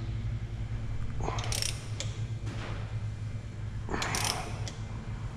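Hand ratchet clicking in two short runs, about a second in and again about four seconds in, over a steady low hum.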